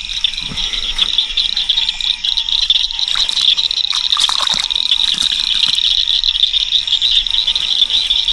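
Frogs calling in a dense, steady chorus, a high, fast-pulsing trill that never lets up.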